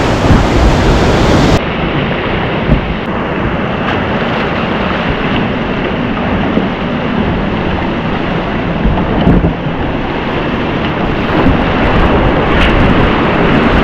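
Rushing river whitewater with wind buffeting the microphone, a loud steady noise that turns duller about a second and a half in.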